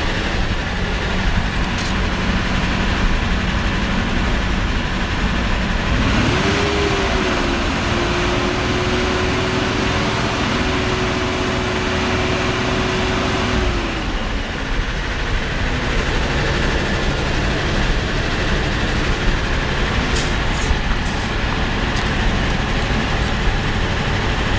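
Mercedes-Benz M116 4.2-litre V8 (type 116.965) running. About six seconds in it is revved up and held at a steady higher speed for about eight seconds, then drops back to idle.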